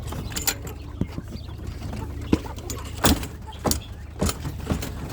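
Irregular knocks and clatters, about seven in five seconds, the loudest a little after three seconds in, from a quail cage or enclosure being opened and handled, over a steady low rumble.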